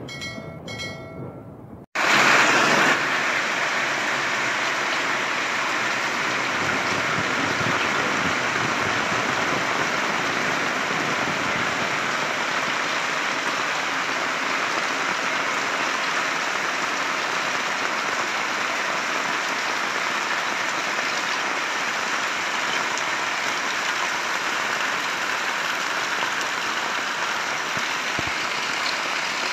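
A few short chiming tones, then, about two seconds in, heavy rain cuts in abruptly and keeps falling steadily and loudly on paving and roofs.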